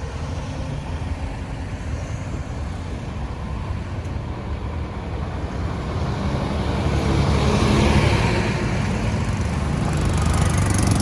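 Road traffic: a steady rumble of engines and tyre noise, with a vehicle coming closer and passing, loudest a little past the middle.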